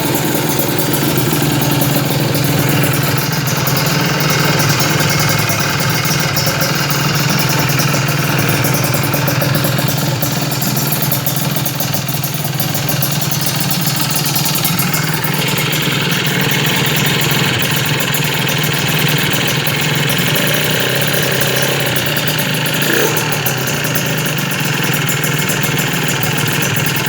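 Motorcycle engine idling steadily through an aftermarket exhaust (knalpot).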